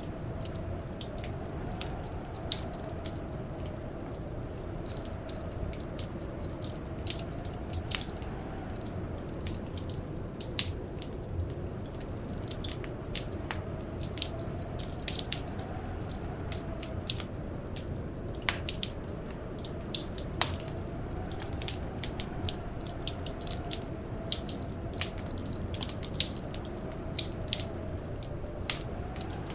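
A wood fire crackling, with frequent sharp, irregular pops over a steady low rumble. Behind it, a faint whistle of blizzard wind slowly rises and falls.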